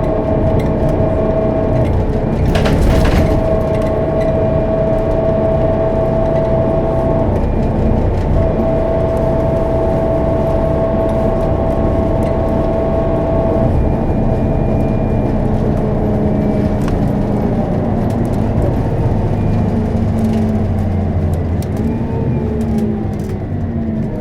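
Scania K270UB city bus with a five-cylinder DC9 turbodiesel and ZF automatic gearbox, heard from on board while driving. The engine runs steadily under a high whine. There is a brief knock about three seconds in, and near the end several tones fall in pitch together as the bus slows.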